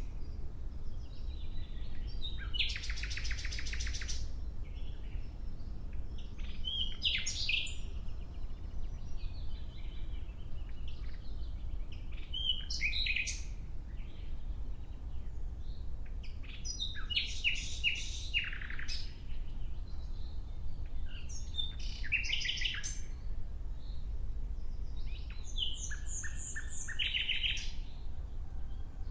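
Nightingale singing: varied phrases every few seconds, several of them fast trills of rapidly repeated notes, over a low steady background rumble.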